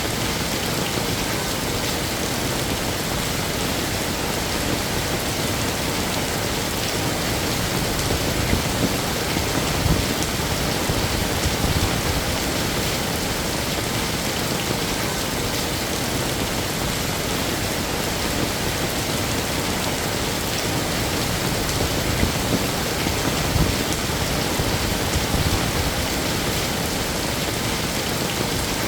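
Heavy rain falling steadily, a dense even hiss with occasional slightly louder patters.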